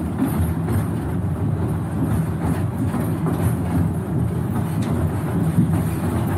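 The Wildlife Express Train running along its track, heard from on board: a steady low rumble of the wheels and running gear.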